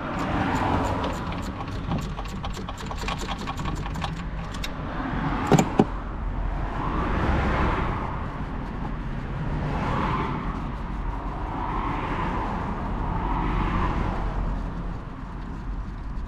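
Ratchet wrench clicking rapidly for about five seconds, then two sharp metallic knocks about five and a half seconds in, followed by road traffic swelling past several times.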